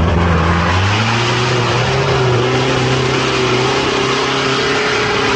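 Nissan Patrol GR Y61's engine revving up over the first second, then held at high, steady revs under load, over a broad rushing noise.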